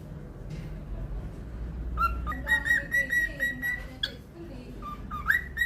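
Cockatiel whistling a tune: a run of quick high whistled notes starts about two seconds in, then after a short pause a rising note leads into more whistling near the end.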